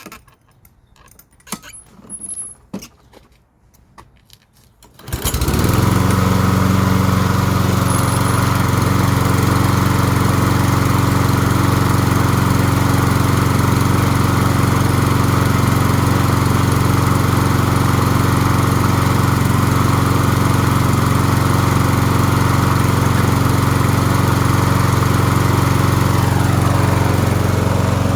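Walk-behind lawn mower's small petrol engine catching about five seconds in and then running steadily, the mower now starting after its stale fuel was dealt with. Before it starts there are a few light clicks and knocks.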